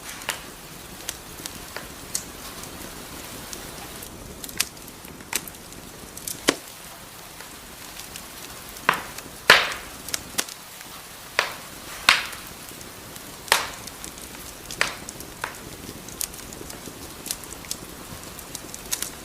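Wood fire crackling over a steady low hiss, with irregular sharp pops, the loudest clustered around the middle.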